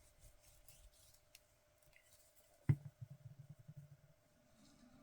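Hands working with paper and craft supplies on a tabletop: faint small clicks and rustles, then one sharp knock, as of an object set down on the table, a little past halfway, followed by a brief low rattle.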